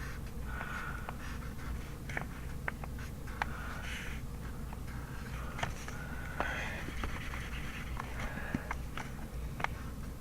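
Pencil writing on paper: short scratchy strokes and light taps coming at irregular intervals over a steady low hum.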